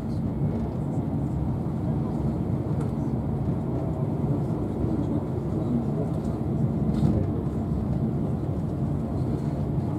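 Steady low rumble of an Intercity 125 (HST) passenger train running at speed, heard from inside the coach: wheels on the rails and running noise, with a few faint clicks.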